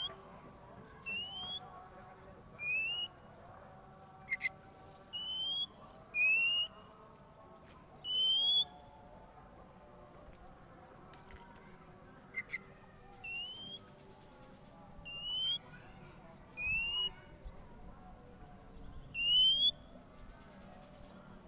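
Oriental magpie-robin (kacer) calling: a series of short rising whistles, about one every one to two seconds, with a couple of sharp clipped notes between them.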